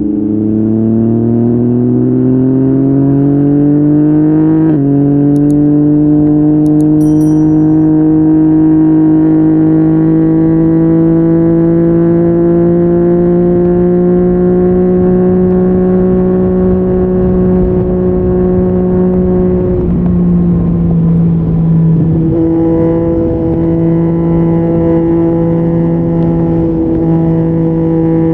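Yamaha MT-09's three-cylinder engine through an Akrapovic exhaust, accelerating: the pitch climbs, drops sharply at an upshift about five seconds in, then holds a long, nearly steady pull. Around twenty seconds in the revs fall off briefly, then the engine comes back on and runs at a steady cruise.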